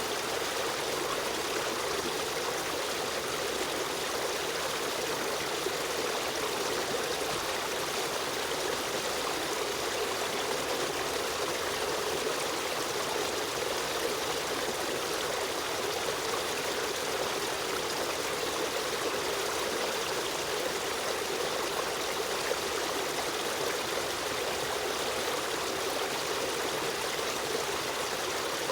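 Stream of running water flowing steadily, an even, unbroken trickling and splashing.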